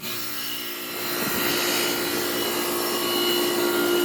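Central air conditioner's outdoor condensing unit starting up: compressor and condenser fan noise with a steady hum. It builds over the first second or two, then runs evenly.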